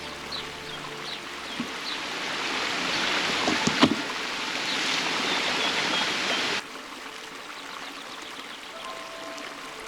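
Rushing stream water that grows louder, with a few sharp knocks a little before halfway through. It cuts off abruptly at about two-thirds of the way through, leaving a quieter watery background with faint bird chirps.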